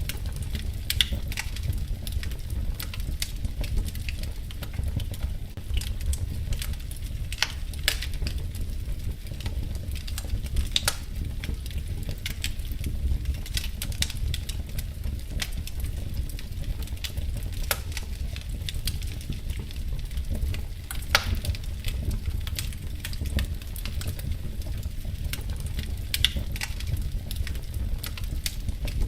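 Wood fire crackling in a fireplace: a steady low rumble with irregular sharp pops and snaps scattered through it.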